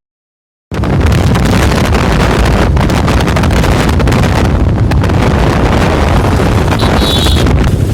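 Loud, steady wind buffeting on the microphone of a phone filmed from a moving motorcycle. It starts abruptly after a brief silent gap.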